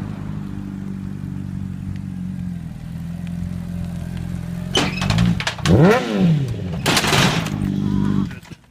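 A vehicle engine running steadily. About five seconds in comes a sharp knock, then squeals sweeping down and up and a loud noisy burst near seven seconds, before the sound cuts off near the end.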